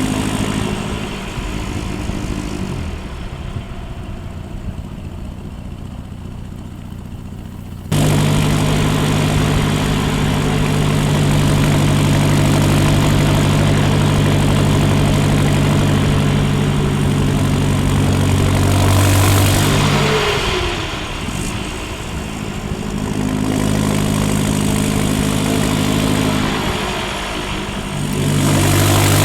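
Land Rover Defender 90's 2.4 TDCi four-cylinder turbodiesel running through a straight-through exhaust, heard close to the tailpipe. It is quieter for the first several seconds, then jumps suddenly louder about eight seconds in to a steady drone. The sound dips briefly twice near the end, where the throttle eases off and comes back on.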